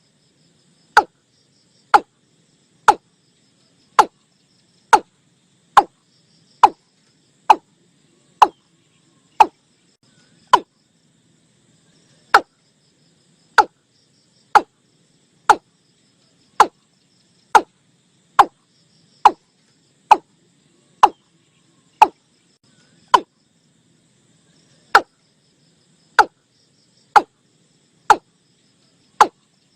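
Recorded watercock calls used as lure playback: short, loud notes repeated about once a second, pausing briefly twice.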